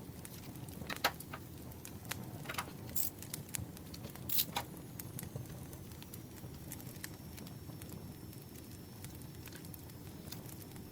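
Campfire crackling over a low steady rumble, with scattered small pops and a few louder snaps in the first half.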